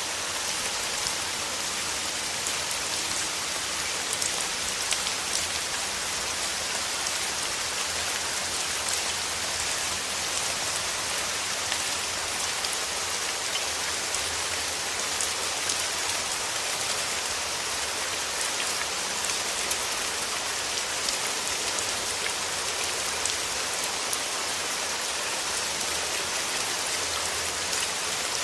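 Steady rain with many individual drops pattering on leaves and petals, a continuous hiss dotted with small drop impacts.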